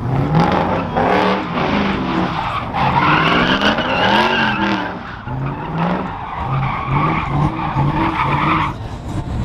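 A vehicle engine revving up and down repeatedly over a continuous rushing noise, which eases off near the end.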